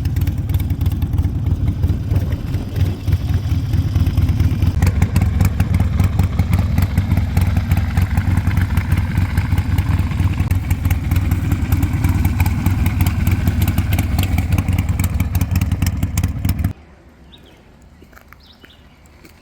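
Harley-Davidson Sportster 1200's air-cooled V-twin running loud and steady, with a rougher, rattlier edge from about five seconds in. It cuts off suddenly near the end, leaving a much quieter background.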